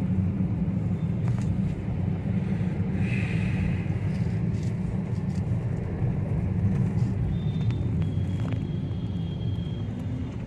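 Steady low rumble of a vehicle's engine and road noise, heard from inside the vehicle as it creeps through a traffic jam.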